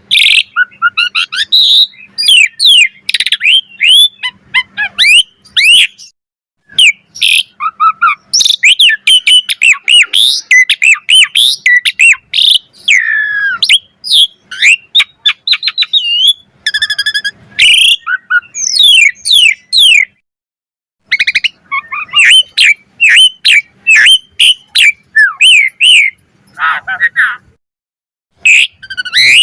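Jalak suren (Javan pied starling) singing a long, varied song of whistled glides, chattering and squawky notes in quick phrases, broken by short pauses about six, twenty and twenty-eight seconds in.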